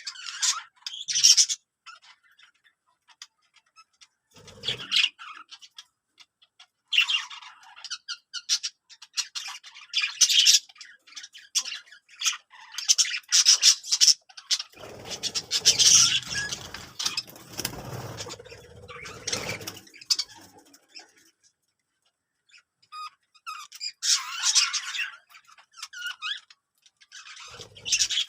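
Birds chirping and squawking in short, repeated bursts with gaps between them, with a stretch of low rumbling noise under the calls in the middle.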